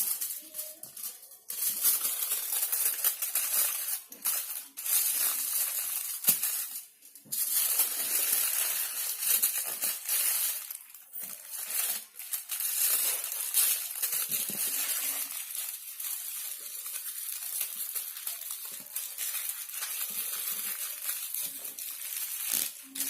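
Aluminium foil being folded and crumpled by hand into a closed parcel, crinkling in uneven spells with short pauses.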